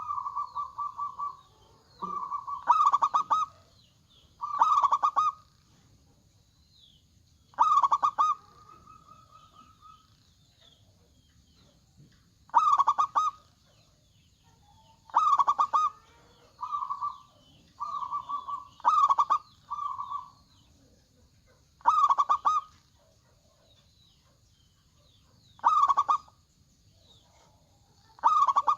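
Zebra dove (perkutut) cooing: a string of short, stuttering, pitched coos, about a dozen phrases with irregular gaps of one to four seconds.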